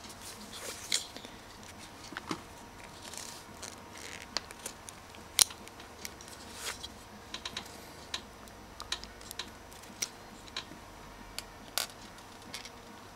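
Hand work on a motorcycle wiring harness: irregular sharp clicks and light ticks, with a few short rustling scrapes in between.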